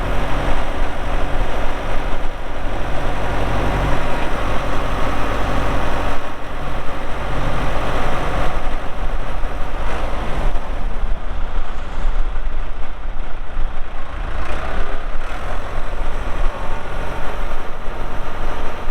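New Holland 6610S tractor's diesel engine running steadily, its note shifting a little about six seconds in.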